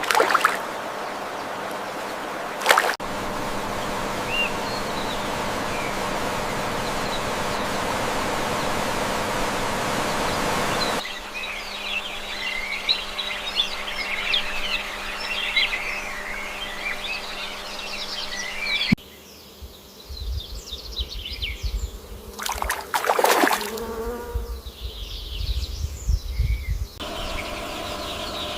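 Outdoor nature ambience in abrupt, separate sections: a steady hiss, then about eight seconds of many short bird chirps, then low rumbling with a loud sweeping whoosh, then a steady hum. Each section starts and stops suddenly.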